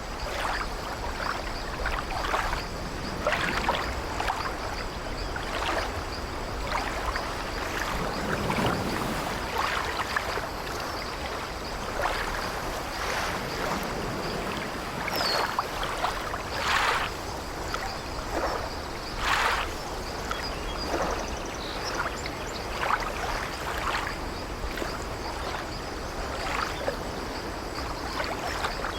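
Sea waves washing against an old wooden sailing ship, with frequent short, irregular creaks of its wooden timbers and deck over a steady water noise.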